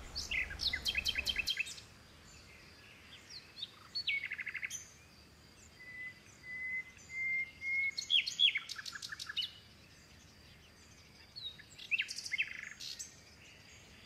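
Birds chirping and calling in tropical greenery: several bursts of quick repeated chirps, with a long thin whistle in between.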